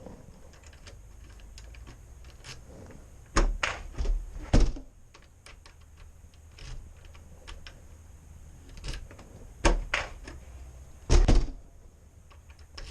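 Irregular knocks and clicks from something being handled and turned around, over a low steady rumble, with the loudest thumps about three and a half, four and a half, ten and eleven seconds in.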